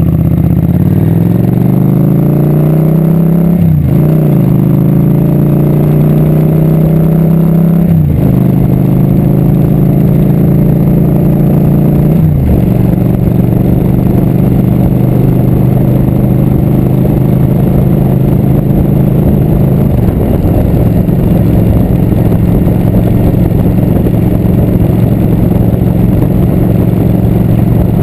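Motorcycle engine accelerating and shifting up through the gears, its note climbing then dropping at each shift about 4, 8 and 12 seconds in, then running steadily at cruising speed.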